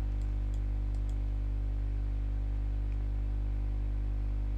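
Steady electrical mains hum, with a few faint computer mouse clicks in the first second or so.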